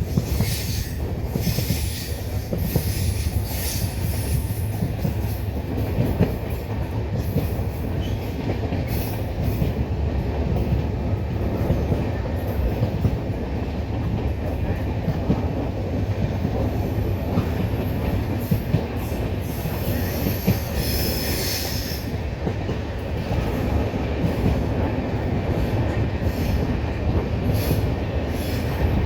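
Passenger train rolling along a station platform, its wheels rumbling steadily over the rails with scattered clacks and short high wheel squeals. The loudest squeal comes about 21 seconds in.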